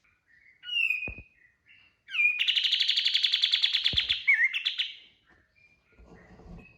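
Kapas tembak bulbul singing: a few short whistled notes, then a long, fast rattling trill lasting close to three seconds, the rapid-fire 'tembakan' burst, which ends in a couple of twisting notes.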